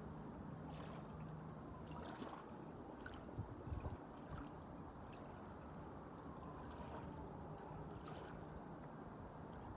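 Water washing and lapping, with wind noise on the microphone. A few low bumps come about three and a half seconds in.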